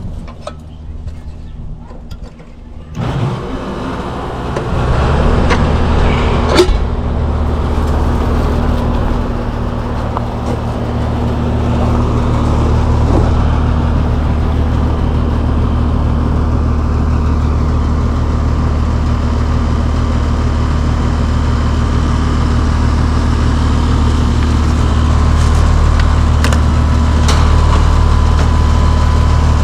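Outdoor air-conditioner condensing unit starting up about three seconds in, then running with a steady hum from its compressor and condenser fan. A sharp click comes a few seconds after it starts.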